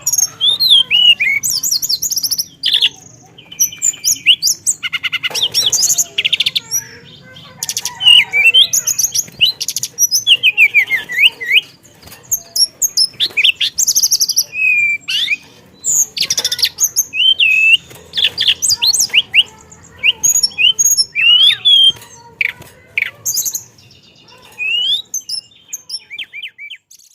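A teledekan songbird singing without pause in long rolling phrases of varied chirps, whistled glides and rapid trills, filled with imitations of other birds' calls.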